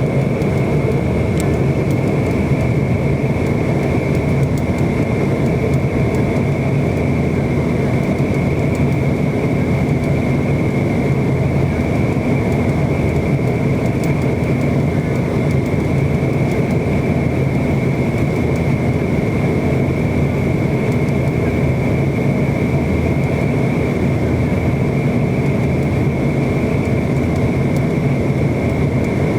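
Steady drone of an MD-90 airliner's IAE V2500 turbofan engines heard from on board, with a constant high whine over a low hum and no change in pitch or level.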